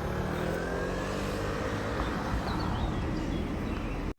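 Road traffic: a motor vehicle's engine running past over a steady traffic hum, its pitch gliding slightly, cut off suddenly at the very end.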